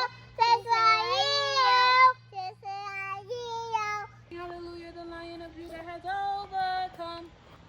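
A child singing a melody in phrases with long held notes.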